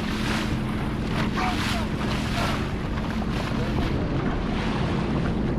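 Sea-Doo jet ski engine running at a steady pitch, with water rushing and wind buffeting the microphone.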